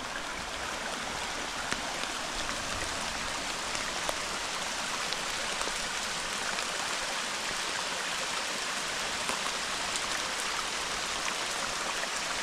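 Steady hiss of hard-falling rain mixed with the rush of a swollen, flooding creek, with scattered faint ticks of drops landing close by.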